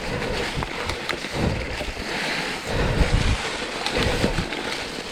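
Wind buffeting the microphone in uneven low rumbling gusts, with a few faint clicks and knocks.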